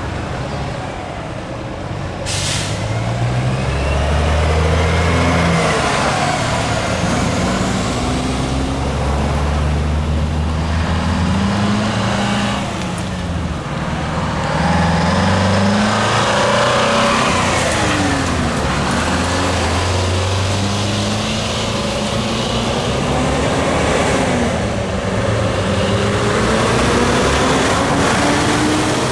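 Heavy diesel trucks pulling away one after another, their engines revving up through the gears so the pitch climbs, drops at each shift and climbs again. A short sharp air-brake hiss comes about two seconds in.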